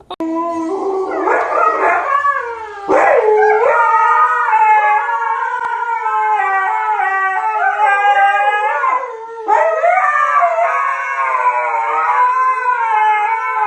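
Dog howling loudly in long, wavering howls, with brief pauses about three seconds in and again about two-thirds of the way through.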